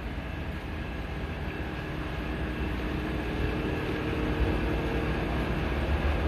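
A train approaching, getting steadily louder, with a low steady hum coming in about halfway through.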